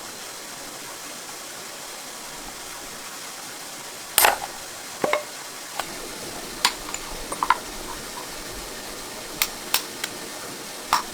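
Scattered sharp clinks and knocks of hard objects being handled, about a dozen, the loudest about four seconds in, over a steady hiss.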